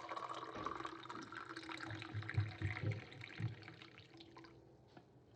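Water running from a tap into a container, its pitch rising as it fills, with a few low knocks; the flow stops about four and a half seconds in.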